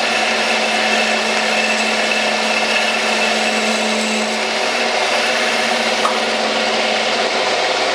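Metal lathe running steadily under power while taking a cut, with a steady machine whine; a low hum in it fades away about halfway through. A creak is in the running, which the machinist puts down to a loose sheet-metal panel.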